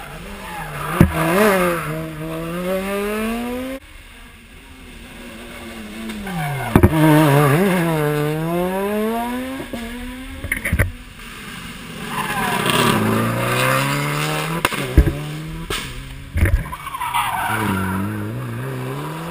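Rally car engines working through hairpin bends, revving up and falling away in three surges as gears change, with sharp cracks between them and some tyre squeal.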